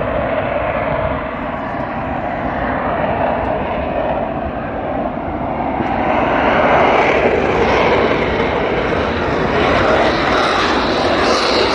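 Blue Angels jet aircraft roaring overhead. The noise builds and grows louder and brighter partway through as the jets come closer.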